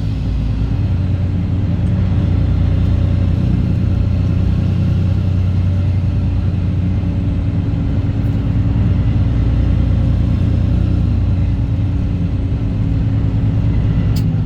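Straight-piped Cat C15 ACERT diesel of a Kenworth W900 truck running steadily under way, its exhaust drone holding a steady pitch that dips slightly about three-quarters of the way through.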